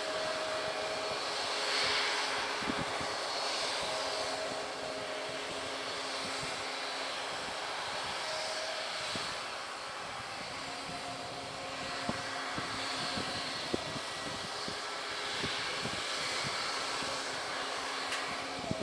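Airliner engines running steadily: a continuous rushing noise with a few constant humming tones and slow swells in the hiss.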